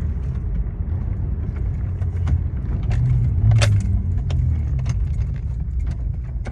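Muffler-deleted exhaust of an Acura TL's V6 heard from inside the cabin while driving: a steady low drone that swells about three seconds in, then eases off. Light jingling clicks, like keys or small cabin rattles, run over it.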